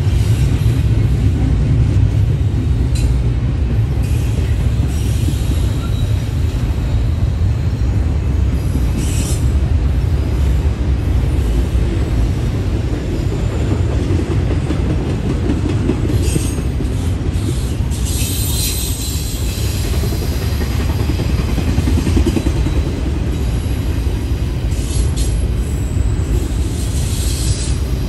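Freight train rolling past: a steady, heavy rumble of railcars on the track, broken several times by short, high wheel squeals, most of them around the middle and near the end.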